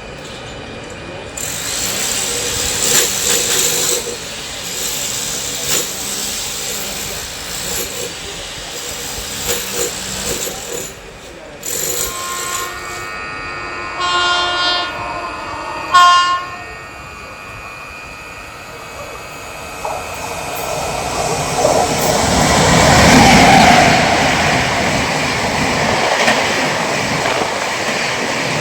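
Indian Railways trains passing on the line, with wheels rumbling and clattering over the rails. Partway through, a train air horn sounds a held chord of several tones that ends in a short, loud blast. Then another train comes through, growing louder toward its peak late on.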